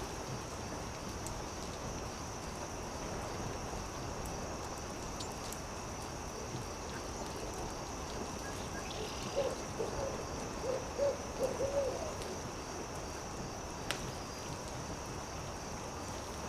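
An owl hooting: a quick run of short hoots starting about nine seconds in and lasting some three seconds. Underneath is the steady hiss of a campfire with a few sharp pops, and a constant high insect trill.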